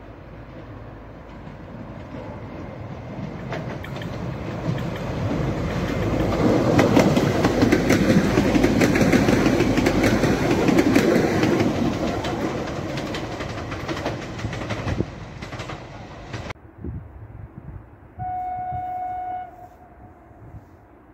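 A passenger train passing close by: its running noise builds to a loud rush with rapid clicks of the wheels over the rail joints, then fades away. Near the end a train horn sounds one steady blast of about a second and a half.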